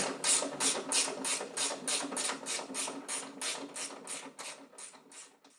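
Hand ratchet wrench clicking in a steady rhythm, about three to four clicks a second, as a fastener on the car's front suspension is wound off. The clicks fade gradually and then cut off suddenly near the end.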